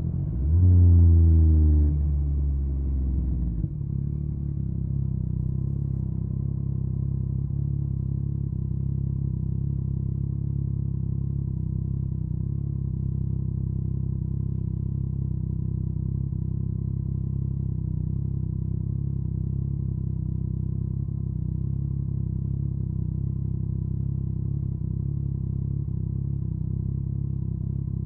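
Yamaha MT-09 inline-three engine through an Akrapovic carbon exhaust. The revs fall, blip up once and drop away over the first few seconds, then the engine settles into a steady idle.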